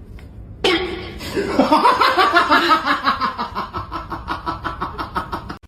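A person laughing hard in a long run of rhythmic bursts, about four to five a second, starting about half a second in and cutting off abruptly near the end.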